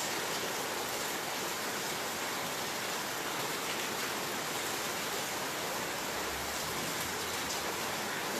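Heavy storm rain falling steadily: a continuous, even hiss with no breaks.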